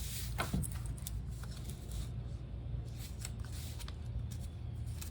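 Decorative paper rustling and crinkling in scattered light crackles as it is folded over the edges of a piece of chipboard.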